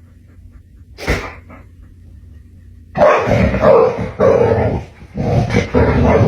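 A dog barking and growling loudly in long stretches from about three seconds in, after one short sound about a second in.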